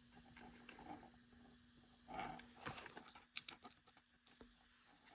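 Faint static hiss from the small speaker hidden under a modified Athearn Bluebox HO boxcar, over a steady low hum, with a few soft crackles about two and three and a half seconds in.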